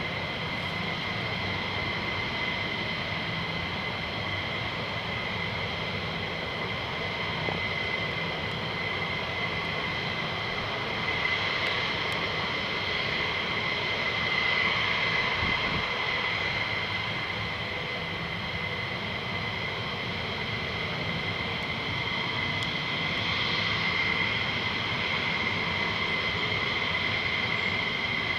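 Military jet engines running at low power with a steady high-pitched whine over a rushing noise, swelling a little twice.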